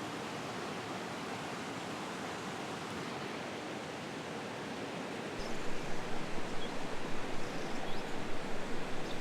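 Flowing river water rushing steadily. A little past halfway the sound gets louder and uneven, with a low rumble added.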